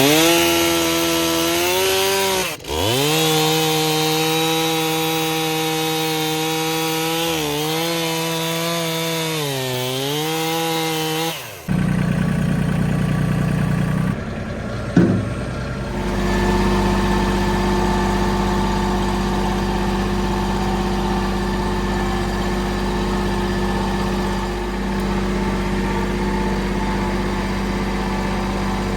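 Gas chainsaw running at high revs and cutting wood, its pitch sagging under load and picking up again several times. About twelve seconds in it gives way abruptly to a lower engine running steadily.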